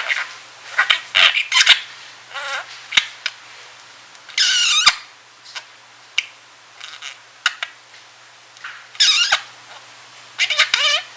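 Drowsy budgerigar mumbling while trying to nap: scattered short chirps and warbled chatter, coming in separate bursts with pauses between, including a longer warble about four seconds in and again near nine seconds.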